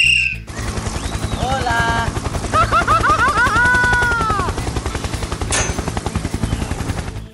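Helicopter rotor sound effect: a fast, steady chopping of the blades that starts about half a second in. Short squeaky, high-pitched cartoon voices chatter over it in the middle. At the very start, the tail of a shrill whistle blast cuts off.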